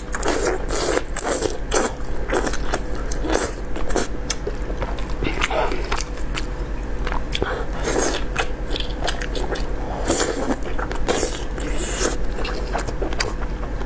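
A person biting and chewing beef intestine close to the microphone: a dense, irregular run of short wet smacks and clicks.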